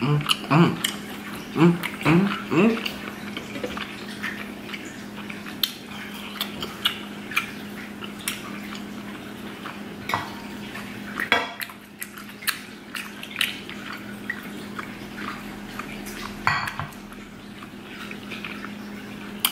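Close-up chewing of boiled octopus tentacle: irregular wet mouth clicks and lip smacks over a steady low hum.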